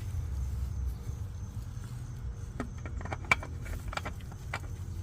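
A steady low rumble, with a run of light clicks and taps in the second half as the new oil filter is handled and offered up to its mount under the car.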